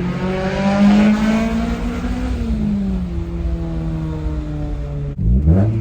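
Honda Civic Type R EK9's 1.6-litre VTEC four-cylinder engine running under way: the revs climb over the first second, ease back about two seconds in, then hold steady. Near the end the sound breaks off sharply, followed by a quick rise in revs.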